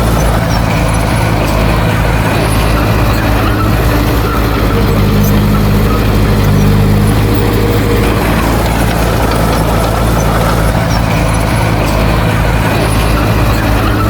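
Heavy earthmoving machine's diesel engine running steadily, its pitch rising a little about five seconds in and settling back a few seconds later.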